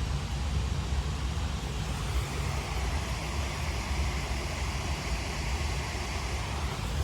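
Wind buffeting the microphone: a low, uneven rumble under a steady hiss.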